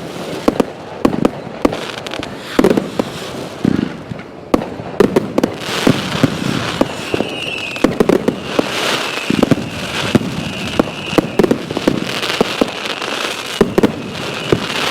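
Bonfire Night fireworks going off: many sharp bangs and crackles in quick succession, with a high wavering whistle from about halfway through.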